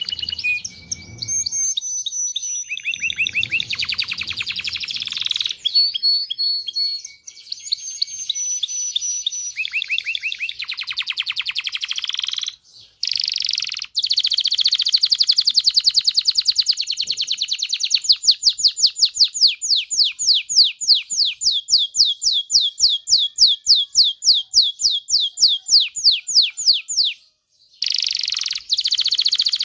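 Male canary singing a long song of fast trills and clear whistled notes, with a long rapid trill of repeated rising sweeps from about 18 to 27 seconds in, broken by two short pauses.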